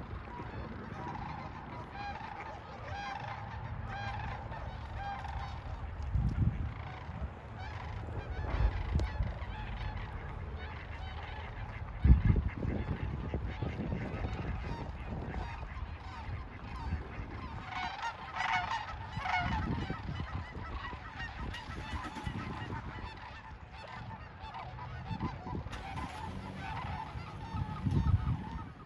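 A flock of geese honking, many overlapping calls throughout and thickest about eighteen seconds in. Low thumps on the microphone come and go, the sharpest about twelve seconds in.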